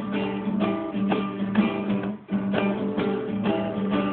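Acoustic guitar strummed in a steady rhythm, about two chords a second.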